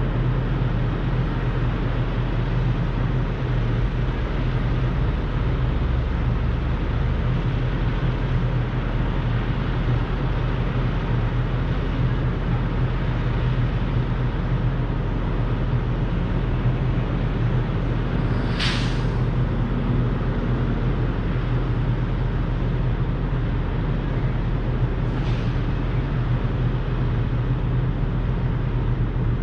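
Semi truck's diesel engine running steadily, with two brief hisses, the louder one about two-thirds of the way through.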